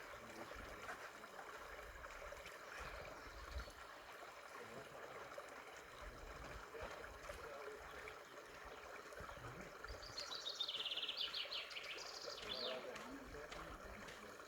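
Woodland ambience with a steady, faint rush of running water. About ten seconds in, a songbird sings a fast trilled phrase of repeated descending notes lasting a couple of seconds.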